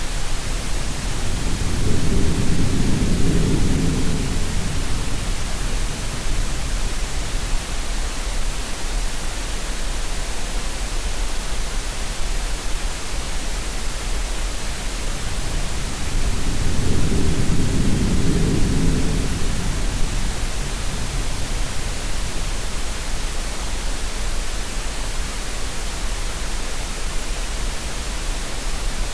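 Steady green noise hiss mixed with sea sounds: two low surging swells of waves, one about two seconds in and another about sixteen seconds in, rise and fade under the constant hiss.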